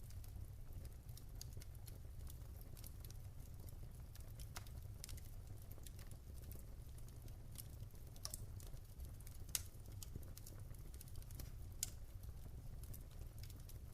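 Wood fire crackling in a fireplace: scattered, irregular sharp pops and snaps, a couple louder ones late on, over a steady low rumble.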